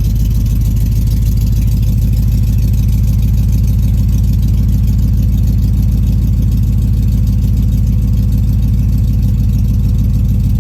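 5.3-litre LS V8 in a 1983 Pontiac Firebird idling steadily, still cold and warming up shortly after a cold start.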